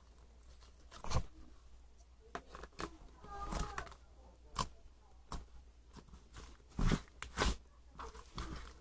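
Irregular crunches and clicks at uneven intervals, with a brief squeaky pitched sound about three and a half seconds in.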